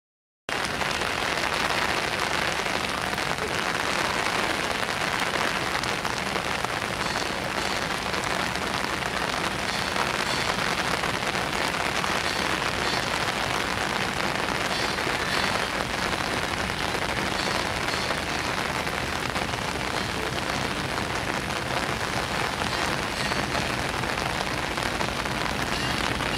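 Steady, heavy rain falling, a dense even hiss of rain on the ground, tracks and platform, starting abruptly about half a second in.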